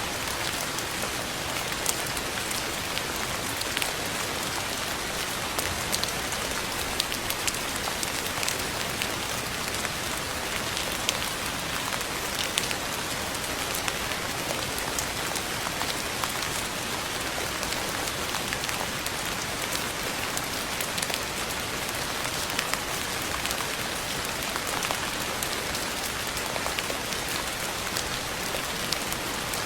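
Steady rain falling, a constant hiss with many small scattered drop ticks.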